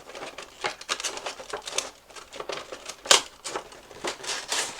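Cardboard box packaging being handled as a figure is pulled out: irregular rustling, crinkling and clicking, with one sharper, louder click about three seconds in.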